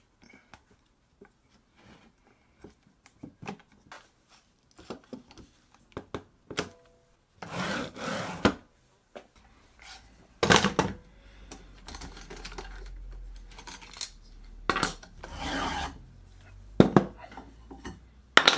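Wooden workpieces being handled and worked: scattered knocks and clicks with a few short scraping strokes of wood rubbing on wood. A faint low hum sits under the second half.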